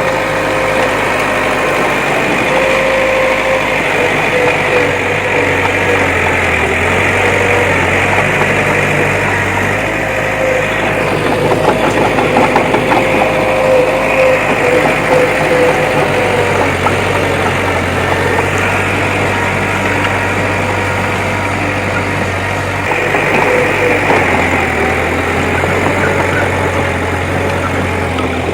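Diesel engine of a heavy earthmoving machine running steadily, with a steady whine over it and a rougher, clattering stretch near the middle.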